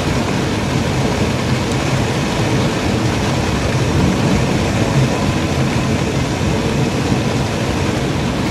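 Steady rush of a Jeep's air-conditioning fan blowing inside the cabin, with the idling engine humming underneath.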